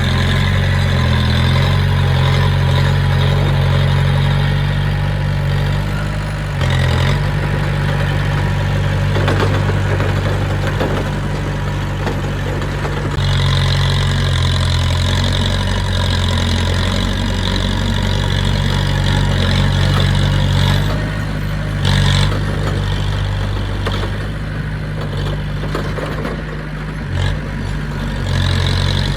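Heavy-equipment diesel engine running steadily. Its low note shifts several times, and a high whine sits over it for several seconds mid-way.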